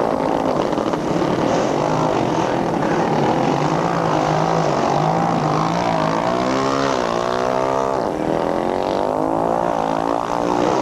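Several motorcycle engines running at once, revving so that their pitch rises and falls and overlaps.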